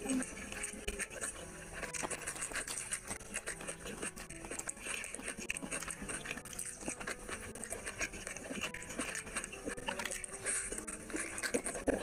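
Close-miked eating: wet chewing and lip-smacking, with a hand squishing rice and curry on the plate, as a dense, irregular run of small clicks and smacks.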